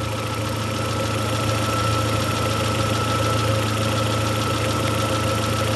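Chevrolet Zafira engine idling steadily after a head gasket replacement, with a steady high whine over the low engine hum.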